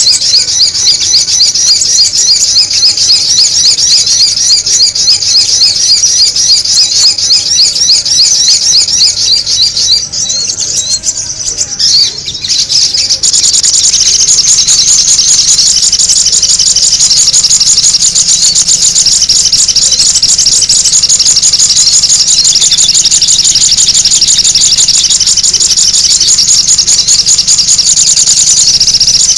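Sogon bird lure recording: loud, rapid, high-pitched chattering calls repeated without pause. The calls grow weaker and broken about ten to thirteen seconds in, then return as denser, steadier chatter.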